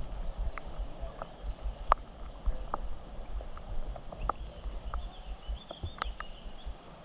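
Wind buffeting the microphone as a steady low rumble, with scattered light irregular ticks and taps a few times a second.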